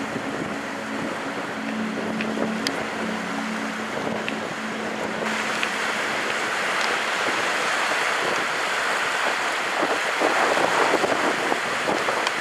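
Strong wind blowing and rushing, growing louder and fuller about five seconds in. A low steady hum runs under it for the first few seconds.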